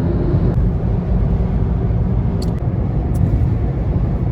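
Car on the move: a loud, steady rumble of engine and road noise that cuts off suddenly at the end.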